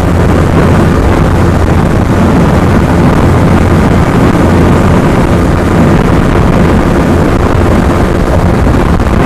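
Yamaha R15M sport motorcycle's single-cylinder engine held at a steady high speed near its top end, mixed with loud wind rush on the rider's microphone. The note holds steady, with no shifts or revving.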